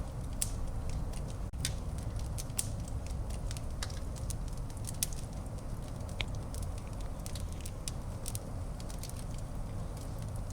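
Wood fire burning in a fireplace: irregular crackles and sharp pops over a steady low rumble of flames, with one louder pop about six seconds in.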